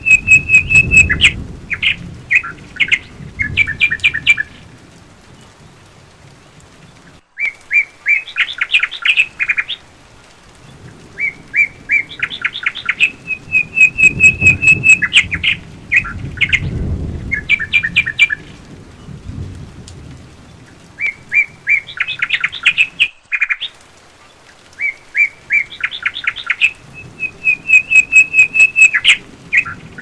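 A songbird singing in repeated phrases, each a held high whistle followed by quick, rapidly repeated chirping notes, with short pauses between phrases. A low rumble swells and fades underneath.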